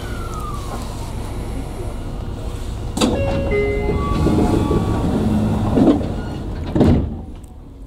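Tokyu 9000 series electric train running, with steady rumble from the wheels and running gear. A sharp clack comes about three seconds in, then a series of steady tones that step from one pitch to another. The sound drops off sharply near the end.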